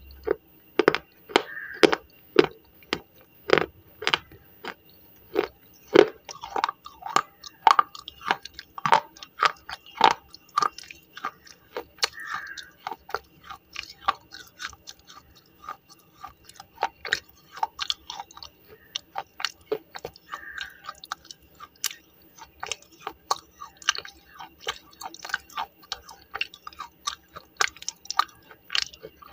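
Slate pencil being crunched and chewed in the mouth: a quick run of sharp, crunchy bites that thins out to sparser, softer chewing in the second half.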